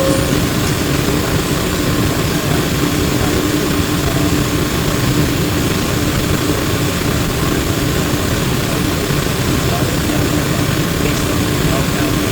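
Cabin noise aboard a Flyer E902 electric trolleybus: a steady hum over a continuous rumble of road and body noise.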